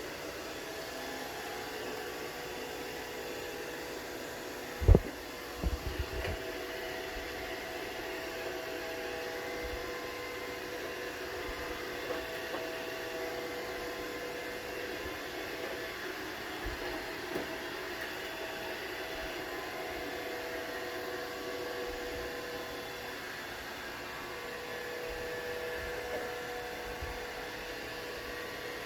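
Roomba robot vacuum running while still trying to dock, its fan and brushes making a steady whir with a few faint whining tones. A sharp knock comes about five seconds in, with a few softer knocks just after.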